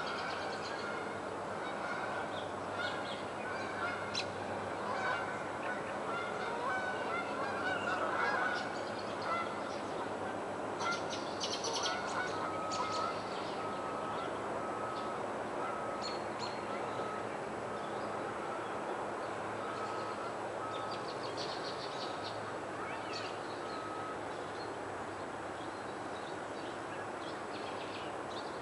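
Birds calling outdoors over a steady background hiss. Several calls come in the first ten seconds, then a short, single-pitched note repeats evenly for about ten seconds, with scattered high chirps throughout.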